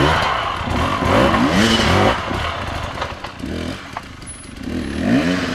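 Off-road motorcycle engine revved hard in repeated bursts, rising and falling in pitch as the rider works the throttle up a steep, loose-stone climb, with a few sharp knocks in the middle.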